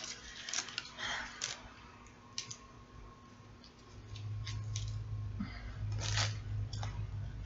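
Someone eating a sub sandwich close to the microphone: scattered clicks and crinkles of the sandwich and its paper, then steadier chewing from about halfway through.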